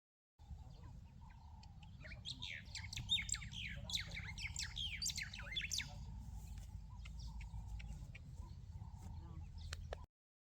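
Several small birds chirping and twittering, a dense run of quick up-and-down calls strongest from about two to six seconds in, over a steady low rumble. The sound starts and cuts off abruptly.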